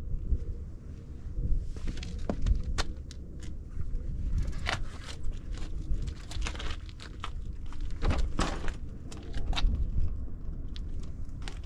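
Irregular clicks, clunks and rustling of gear being handled while an e-bike is unloaded and set up, over a steady low rumble.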